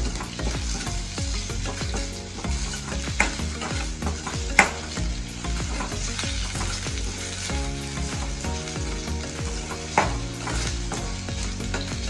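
Chopped onions, green chillies and curry leaves sizzling in hot ghee in a steel kadai, stirred and scraped with a metal spatula, with a few sharp clicks of the spatula against the pan, the loudest about halfway through. The onions are being softened until transparent for a dal tadka.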